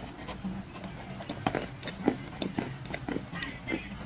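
Dry clay crunching and crumbling, a quick irregular run of sharp crackles and snaps over a steady low hum.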